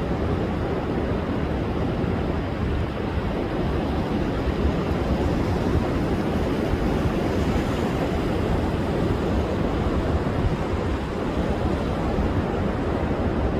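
Rough sea surf breaking on a sandy beach in a continuous, even rush of noise, heaviest in the low rumble, with strong wind buffeting the microphone.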